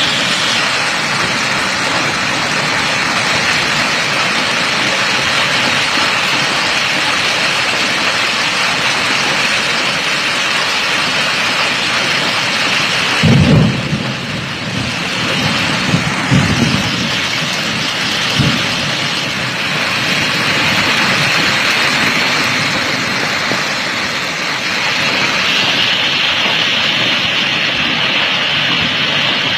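Hail and rain pelting down in a dense, steady hiss. About 13 seconds in comes a loud, low rumbling thump lasting about a second, followed by a few smaller ones over the next five seconds.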